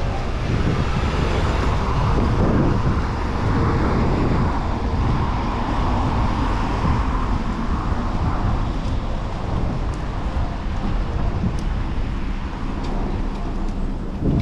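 Moving-bicycle ride sound: steady rumble of wind and road noise on the microphone with city traffic, swelling in the first half as a vehicle goes by. A few faint sharp ticks in the second half.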